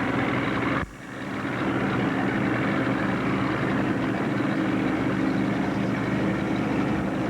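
Small motorboat's engine running at steady speed on the water, with wind and water noise. The sound drops out suddenly about a second in and builds back up over the next second.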